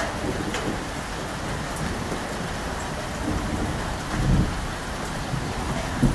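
Steady heavy rain falling, with low rumbles of thunder swelling up about four seconds in and again near the end.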